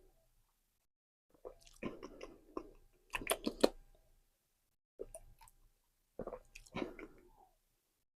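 Close mouth sounds of someone sipping and swallowing iced tea, in two bouts, with a few sharp clicks in the middle of the first one.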